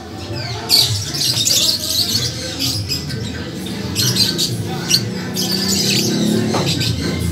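Caged birds squawking and chirping in short, irregular bursts over a steady low background.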